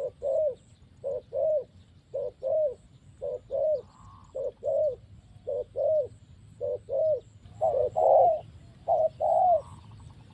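Dove cooing in a steady run of short two-note phrases, about one a second, the second note longer and falling in pitch. Near the end the calls get louder and denser.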